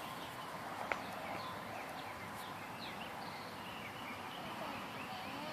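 Birds chirping in short, repeated calls over a steady outdoor background hum, with a single sharp click about a second in.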